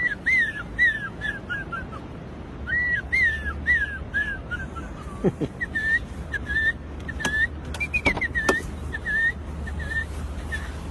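Bird-like whistled calls: several runs of short, downward-slurred chirps, each run stepping lower in pitch, with a few sharp clicks near the middle over a low steady rumble.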